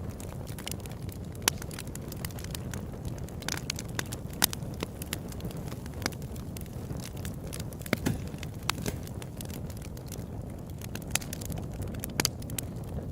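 Open campfire burning: wood crackling with many irregular sharp pops, a few of them louder, over a steady low rumble.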